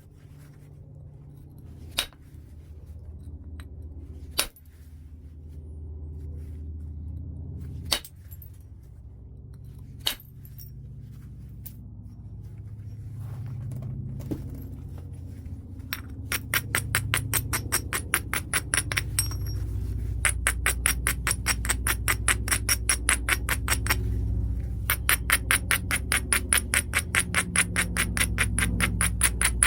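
Knapping on a large piece of white chert: four single sharp, clinking blows a couple of seconds apart, then a fast, even run of short scraping strokes on the stone, several a second, pausing briefly once.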